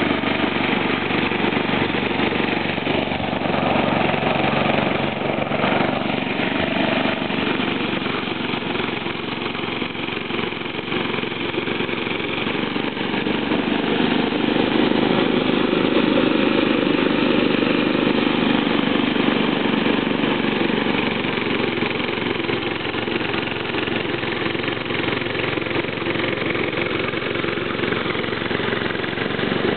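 Snowblower engine running steadily under load while clearing deep snow.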